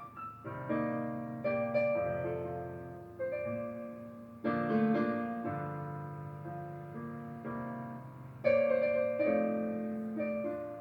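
Background piano music: slow chords struck every second or two and left to ring out and fade.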